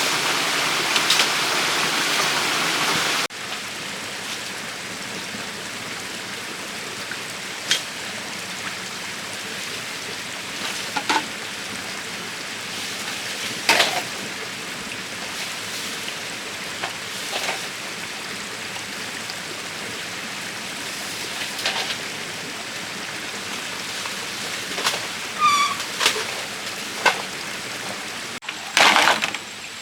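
A rush of running water for about three seconds that cuts off suddenly, then a steady hiss with single sharp knocks every few seconds from work on bamboo, growing into a cluster of louder knocks near the end.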